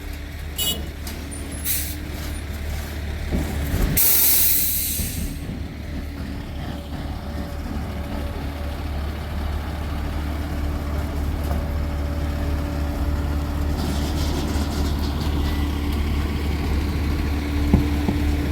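Heavy truck's diesel engine running steadily, with a loud hiss of air brakes being released about four seconds in.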